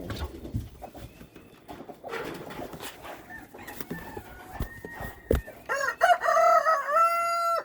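Chickens clucking, with a sharp knock about five seconds in, then a rooster crowing loudly near the end, its long held call cut off abruptly.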